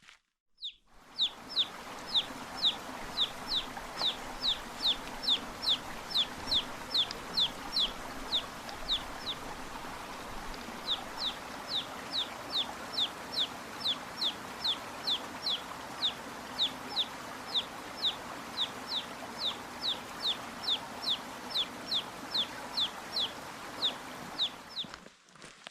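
A bird calling over and over with short, high, downward-slurred notes, about two to three a second. The calls break off briefly near the middle, then carry on, over a steady rushing hiss.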